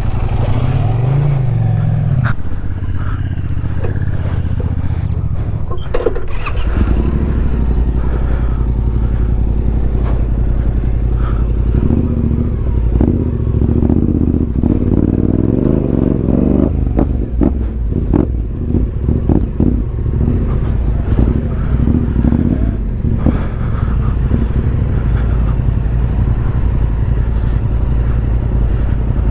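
Adventure motorcycle engine running as the bike is ridden, with a brief rev rising and falling about a second in.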